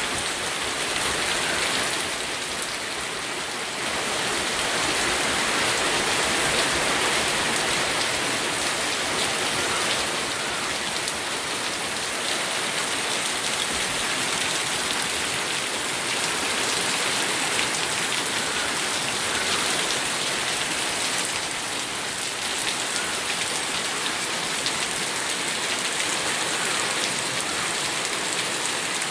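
Steady rain falling, with scattered individual drops ticking on a surface; it eases slightly a couple of seconds in and swells again.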